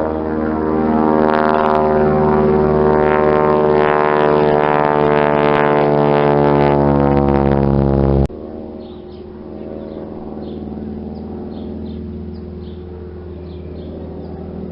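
Propeller airplane engine droning loudly as it passes, its pitch slowly falling. It cuts off abruptly about eight seconds in, and a quieter, more distant engine hum follows.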